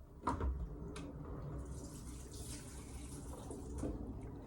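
Water running and splashing, with two light knocks in the first second.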